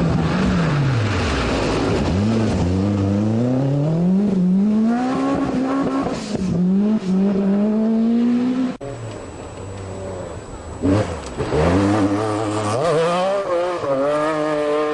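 Group B rally car engines accelerating hard, each note climbing and dropping back as the car shifts up through the gears. A sudden break comes about nine seconds in, then another car accelerates through its gears with a buzzing note, 'like a bumblebee in a can'.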